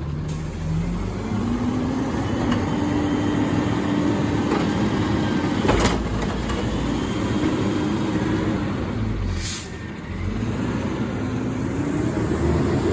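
Garbage truck's diesel engine revving up and holding a raised pitch, typical of powering the hydraulics, then dropping and revving up again near the end. There is a sharp clunk about six seconds in and a short air hiss at about ten seconds.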